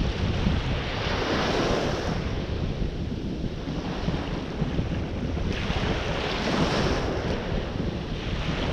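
Ocean surf breaking and washing on the shore, swelling about a second in and again past the middle, with wind buffeting the microphone as a low rumble.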